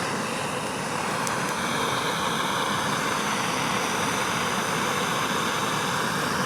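A small handheld fire-starting device for the grill fire running steadily with a loud rushing hiss and faint high whining tones.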